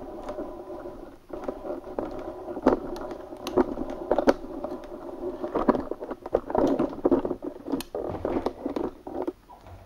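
Clicks, taps and small knocks of a small plastic action camera being handled, over a steady hum. The clicks come thickest over the middle and later part and stop near the end.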